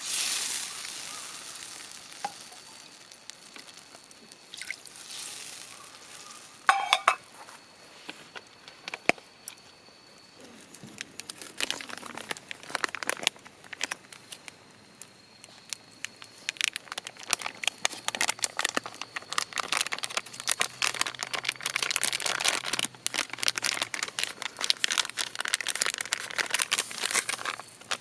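Food frying in a pan over a wood fire: a sizzle that fades over the first couple of seconds, then crackling that grows dense and popping from about the middle onward. There are a few sharp metal clinks about seven seconds in.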